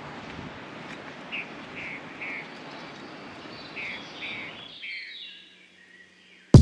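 A bird chirping in short notes, three and then three more, over a steady outdoor hiss; the sound fades out about five seconds in.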